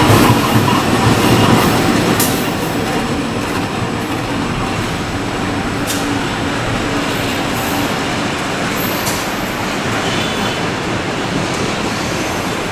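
A train running past on the rails, loudest over the first two seconds and then steady, with a few sharp clicks from the wheels.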